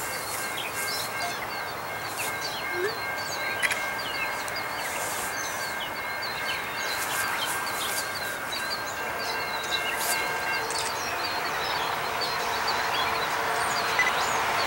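Birds chirping steadily over the distant sound of an approaching passenger train led by an EMD F59PHI locomotive, which slowly grows louder near the end.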